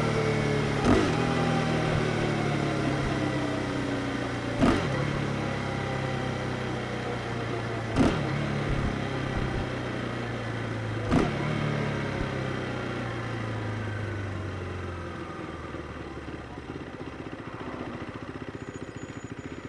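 KTM 390 Duke's single-cylinder engine slowing down, its pitch falling gradually with four sharp clicks a few seconds apart. The engine note fades about three quarters of the way through and the sound grows quieter.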